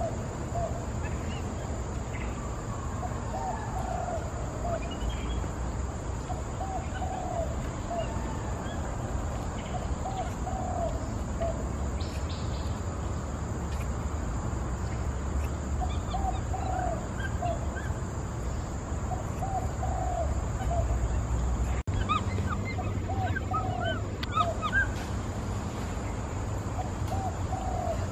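A bird calling again and again in short groups of three or four quick notes, a group every few seconds, over a steady low rumble. Near the end, higher chirps join in.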